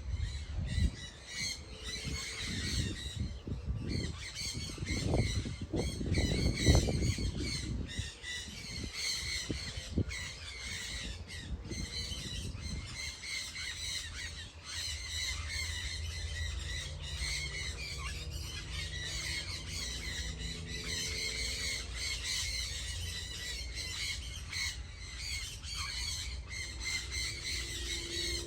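A flock of birds chirping and squawking all at once in a dense, unbroken chatter, with some low rumbling underneath during the first half.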